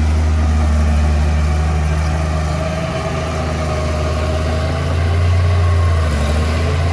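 Diesel engine of heavy earthmoving machinery running steadily at low revs, swelling a little about five seconds in and easing back.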